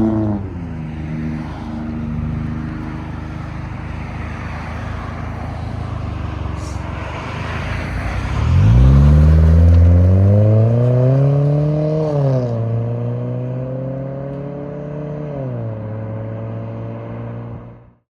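The exhaust of a 2014 Hyundai Santa Fe Sport's four-cylinder engine, muffler deleted but keeping its resonator and factory tip. A low drone at the start is followed, about eight seconds in, by a slow rev that rises steadily, drops back a little and holds, then steps down again before the sound cuts off.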